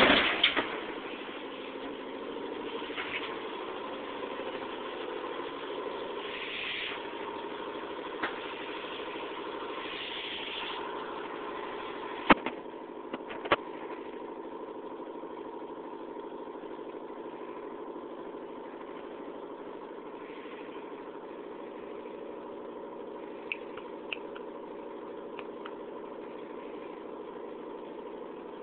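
Steady mechanical hum of several held tones, with a few sharp clicks: a cluster at the very start, two about a second apart near the middle, and two fainter ones later.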